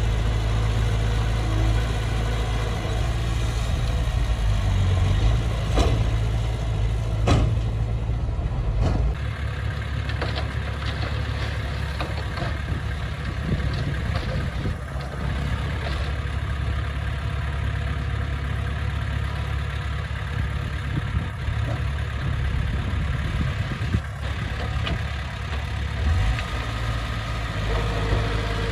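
Diesel engine of heavy earthmoving machinery running steadily, with a few sharp knocks in the first third.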